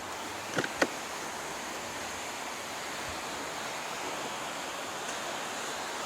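Steady rushing hiss of outdoor wind and ambient noise, with two sharp clicks close together just under a second in.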